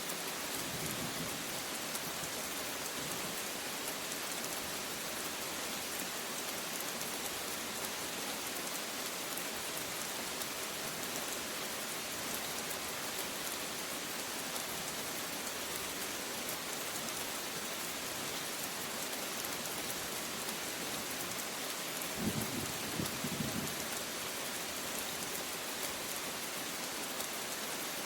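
Steady rain falling hard, an even hiss throughout. A brief low rumble of thunder comes about three-quarters of the way through.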